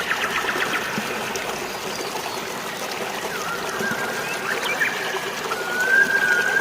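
Water trickling and splashing steadily, with birds chirping now and then. A long, high, held whistle comes in near the end.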